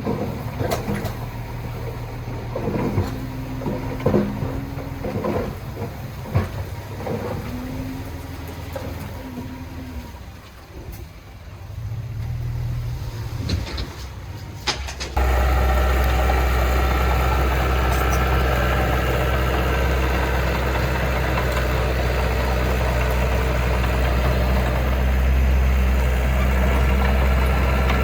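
Heavy diesel machinery engine running, with scattered clanks and knocks. About halfway through, the sound switches abruptly to a louder, steady, low engine drone.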